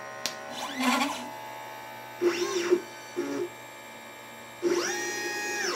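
Stepper motors of a LitePlacer pick-and-place machine driving the head through its moves while placing surface-mount parts. Each move is a whine that rises in pitch, holds and falls away, with a short low buzz alongside; there are three or four moves, and the longest one comes near the end.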